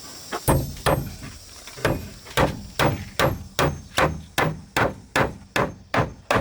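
A hand tool striking wood in a steady rhythm, about two to three blows a second, starting about half a second in.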